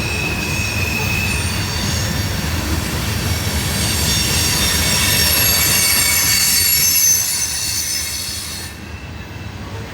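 Loaded grain hopper cars of a freight train rolling past, the wheels squealing with several high, steady ringing tones over a low rumble. It is noisy; the squeal builds toward the middle and drops away about nine seconds in.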